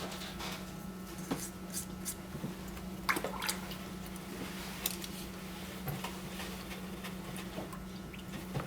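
Scattered light clicks, taps and small wet sounds of a watercolour palette being handled and its dried paints wetted, over a steady low hum.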